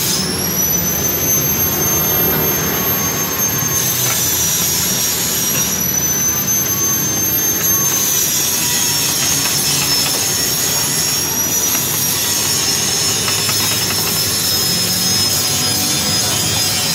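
Steady machine noise: a continuous running roar with a high-pitched whine that drifts slightly in pitch.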